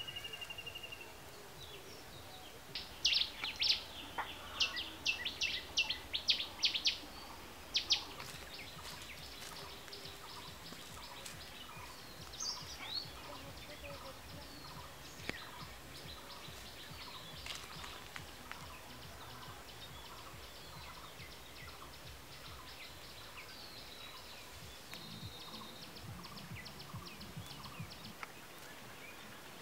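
Birds calling: a run of loud, short, sharp high calls a few seconds in, then a faint, fast, high ticking chatter that keeps on.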